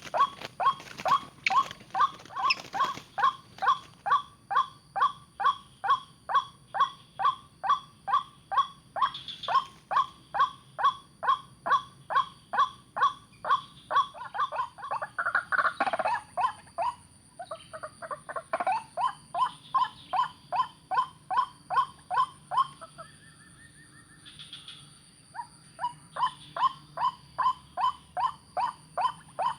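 White-breasted waterhen (ruak-ruak) calling: short, rhythmic notes repeated about twice a second, with a brief break about three-quarters of the way through before the calls resume.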